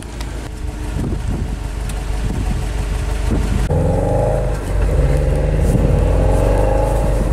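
Car engine running. For the first few seconds it is heard from outside as a recce car moves past; after a cut it is heard from inside a cabin, a steady drone with a higher hum on top.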